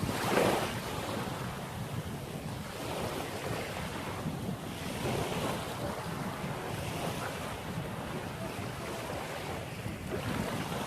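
Sea waves washing in, with wind buffeting the microphone; a louder gust of wind noise just after the start.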